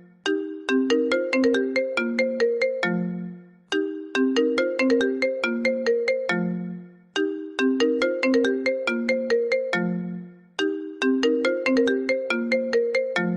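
Original iPhone ringtone: a quick run of marimba-like struck notes ending on a held low note, the phrase repeating four times, about every three and a half seconds.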